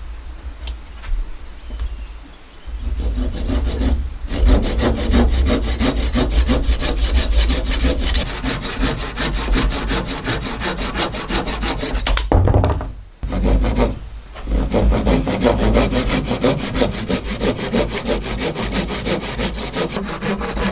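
A saw cutting through wood in long continuous runs, starting about three seconds in, with a brief stop about a second later and a longer pause around the middle.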